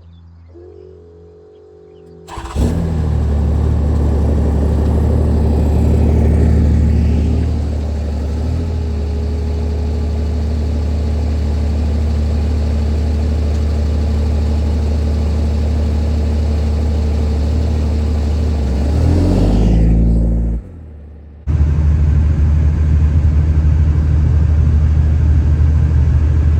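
Pickup truck engine starting up suddenly and running steadily, with a slight rise in revs a few seconds after it catches and again near the end. It stops abruptly and, after a second's gap, runs on just as loud.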